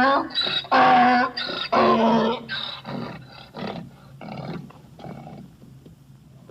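Donkey braying: a series of loud pitched hee-haw calls that grow shorter and fainter and die away about five seconds in.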